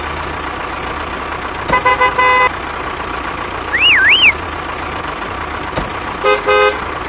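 Vehicle engine running steadily, with a horn honking three short toots about two seconds in and two more near the end, and a brief warbling whistle in between.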